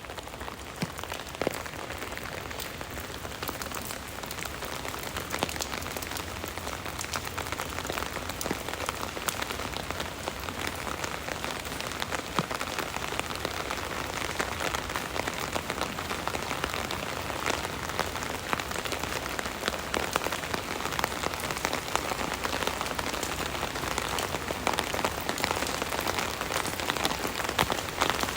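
Rain falling on an umbrella overhead: a steady hiss of rain with many sharp individual drop hits on the canopy.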